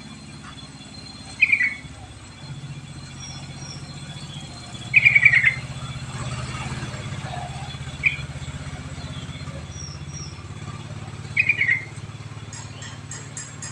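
Yellow-vented bulbul (trucuk) giving short bubbly call phrases, four times, the second the loudest, over a steady low hum. Faint high chirps and a row of faint ticks near the end sit in the background.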